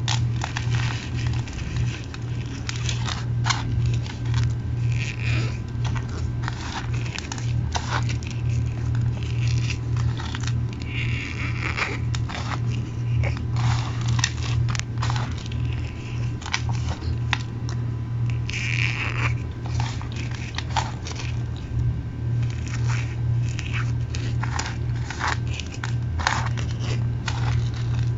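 Mini chunks of cornstarch crushed between the fingers: a string of crisp crunches and crackles, with a few short squeaks, over a steady low hum.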